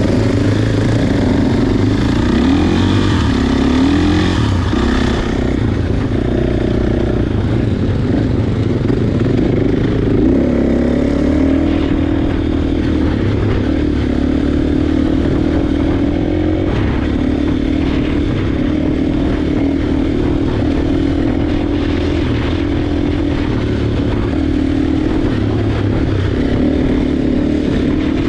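Motocross bike engine running under load, its pitch rising and falling with the throttle for the first ten seconds or so, then holding steadier.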